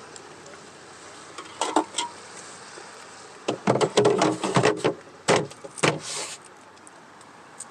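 A quick run of clicks and knocks from things being handled, a couple about a second and a half in and a busier clatter a little after three seconds, ending with a short rustle.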